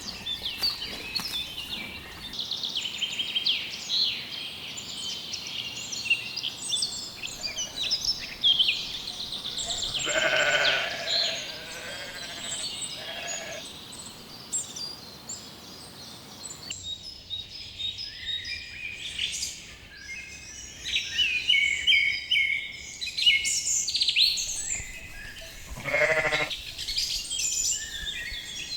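Sheep bleating about ten seconds in and again near the end, over constant songbird chirping.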